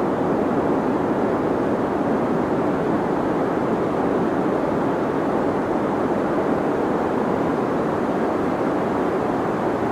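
Deep white noise: a steady, even hiss weighted toward the low end, unchanging throughout.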